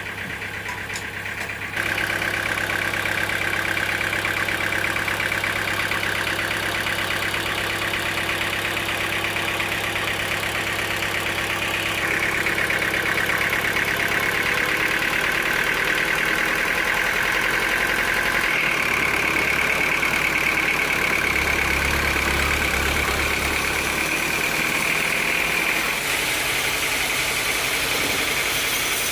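Sawmill machinery running steadily: an engine-like drone with a high whine over it. The sound changes abruptly a few times.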